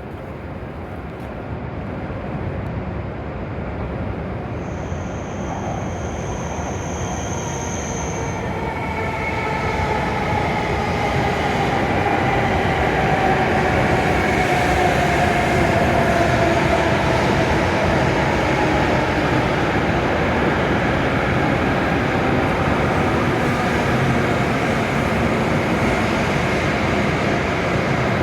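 W7 series Shinkansen train pulling into the platform, its running noise growing louder over the first dozen seconds and then holding steady. The traction motor whine slides down in pitch as the train brakes and slows. A brief high steady tone sounds about five seconds in.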